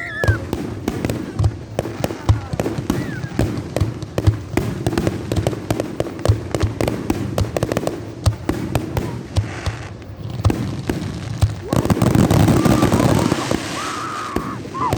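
Fireworks going off: many sharp pops and bangs in quick, uneven succession, with a louder, denser rush of noise lasting about two seconds near the end.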